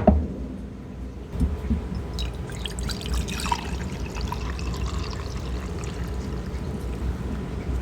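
Tea being poured into a cup, a trickling pour lasting about two seconds and starting about two seconds in. It follows a sharp knock at the very start, and a steady low rumble lies underneath.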